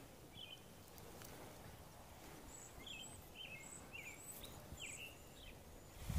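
Small songbirds chirping faintly: a quick series of about five short, high notes near the middle, with one earlier chirp.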